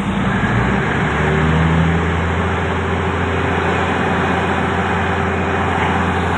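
Diesel train engine running steadily, with a deeper steady hum setting in about a second in.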